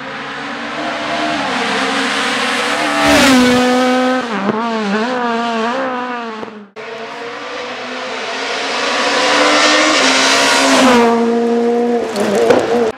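Two rally cars at racing speed, one after the other, with an abrupt cut between them about halfway through. Each engine rises as the car approaches, then its pitch drops and wavers through quick braking downshifts and throttle blips.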